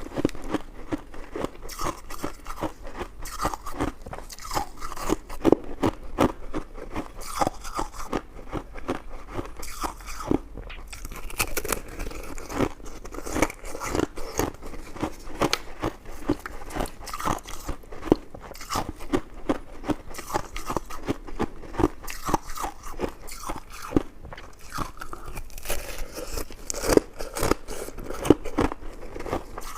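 Close-miked eating sounds: a person biting and chewing soft, chewy food, with a rapid, irregular stream of wet mouth clicks.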